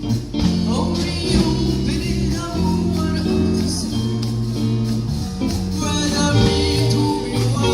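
A community band playing live, with singing over the instruments.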